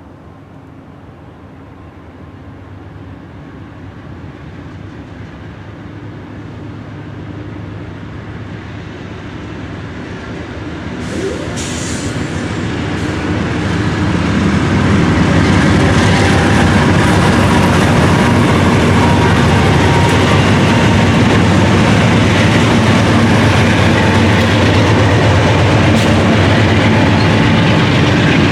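Diesel-hauled freight train approaching, growing steadily louder over about fourteen seconds, then passing close by at a steady loud level with rumbling and rail clatter from its wheels.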